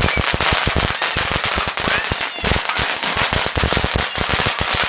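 Fireworks crackling: a dense, rapid string of sharp cracks, many to the second, going on without a break.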